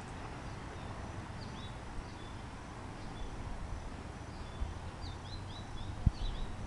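Small birds chirping in short, quick high notes, more often in the last couple of seconds, over a steady low rumble. One knock near the end.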